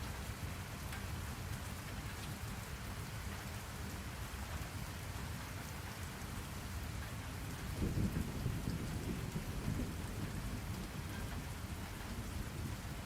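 Steady rain falling, with a low rumble of thunder swelling a little past the middle and dying away over a couple of seconds.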